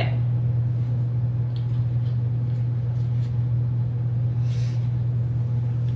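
A steady low hum, with a few faint soft ticks over it.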